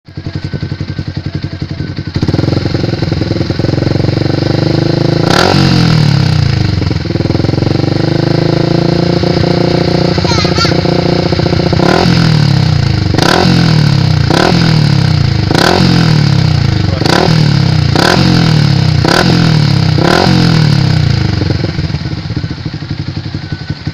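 Yamaha Vixion single-cylinder four-stroke motorcycle engine running through an aftermarket MK Racing Performance exhaust. It idles, is held at raised revs, then is blipped about once a second some nine times, each rev dropping straight back. It settles to idle near the end.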